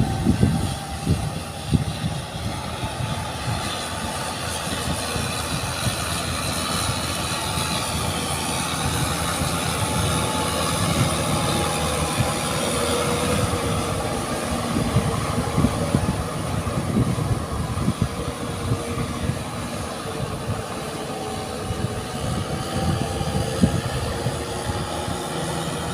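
Tractor engine running steadily under load while plowing through mud, its pitch wavering slightly, over an irregular low rumble.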